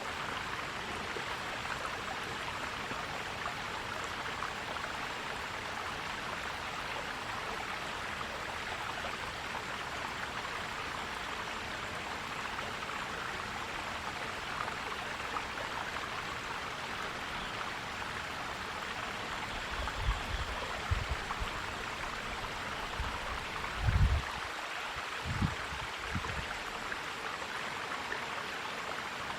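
A stream running steadily, an even rush of water. About two-thirds of the way through come a few short low thumps, the strongest a little after that.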